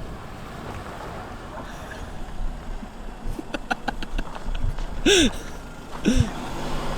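Steady low rumble of a car engine as a car pulls up, with a few light clicks, then two short called-out voice sounds near the end.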